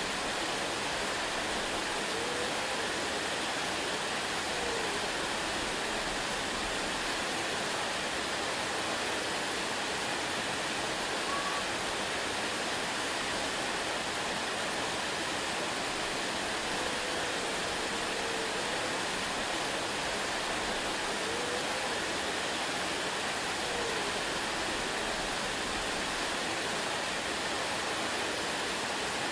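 Waterfall rushing in a steady, even roar of falling water, with a few faint short arching tones now and then.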